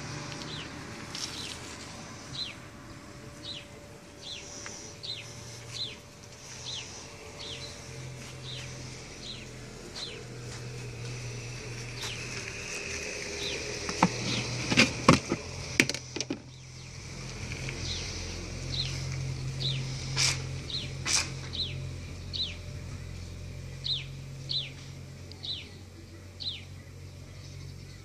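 A small bird calling over and over in short, slightly falling chirps, roughly one a second. About halfway through comes a quick cluster of sharp knocks and clicks, the loudest sound, as a hand handles the black plastic lid of the water tank.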